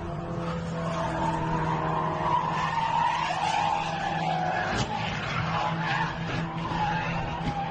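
Car tyres squealing in a skid, a wavering squeal over a steady low vehicle hum, with a couple of short knocks partway through.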